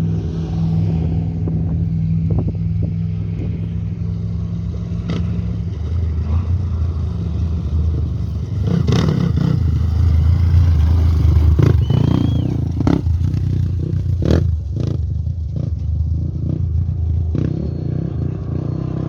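A motor vehicle's engine running steadily, then swelling louder through the middle, with scattered knocks and clatter.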